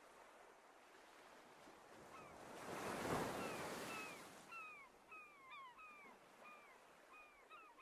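Short, downward-sliding bird calls repeating about twice a second, over a swell of rushing water-like noise that peaks about three seconds in and fades.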